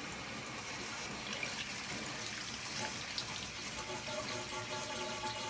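Water from a RODI (reverse osmosis/deionization) filter system running steadily into a bucket, flushing out freshly installed filters.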